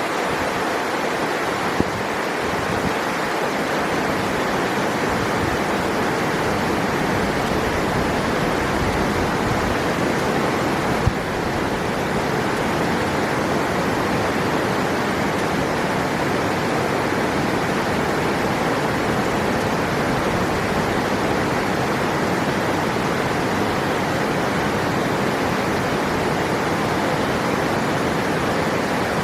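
River water rushing steadily, with a couple of brief clicks, near the start and about eleven seconds in.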